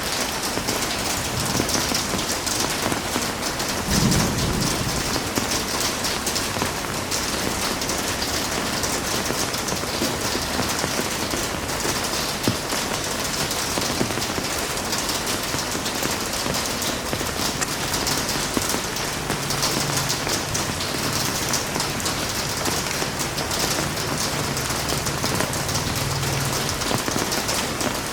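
Heavy rain falling steadily in a dense, even hiss, with a brief low rumble about four seconds in.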